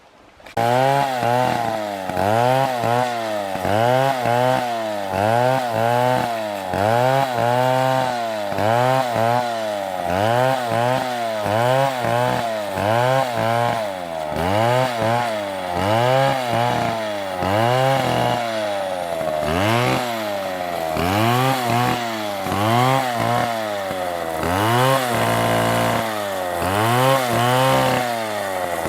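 Chainsaw engine, starting abruptly about half a second in and revving up and down over and over, its pitch rising and falling about once every second and a bit. Near the end the engine holds a steady pitch for a moment before the revving goes on.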